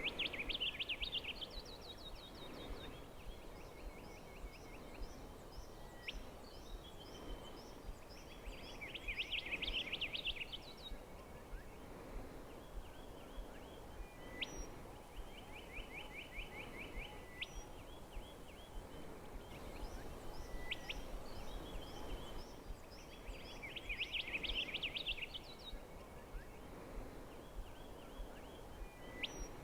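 Dawn chorus of wild birds calling from below, fast rattling trills and repeated notes, swelling into louder dense bursts three times.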